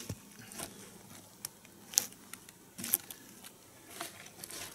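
Wooden logs being handled and shifted into place: a few light knocks and rustles, the sharpest about two and three seconds in.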